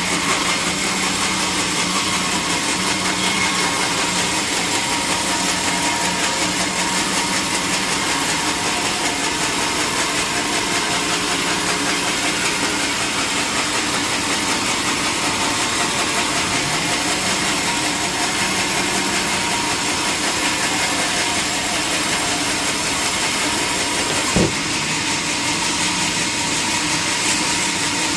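Sawmill machinery running steadily, with one sharp knock about three-quarters of the way through.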